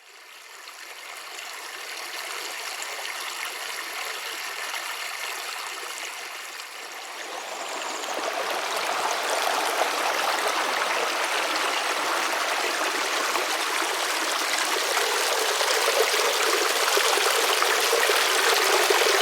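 A creek's water flowing steadily. It fades in at the start and grows louder about eight seconds in.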